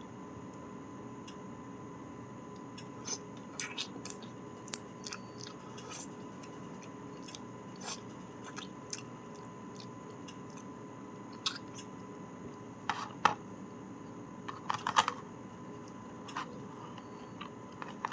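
Eating sounds: scattered sharp clicks and taps of utensils with chewing, over a steady low hum. The loudest clicks come in a cluster about 13 and 15 seconds in.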